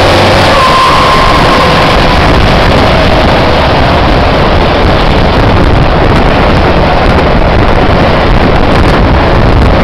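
Scania T-cab truck's engine running through its side-pipe exhaust, very loud and steady, with wind noise on the microphone.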